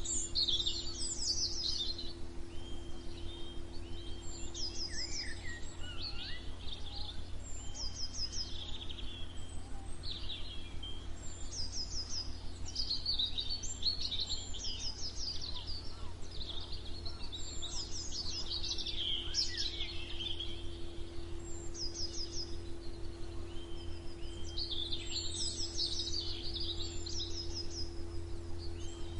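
Several songbirds singing together, with short repeated runs of high chirps and warbling phrases overlapping throughout, over a steady low hum.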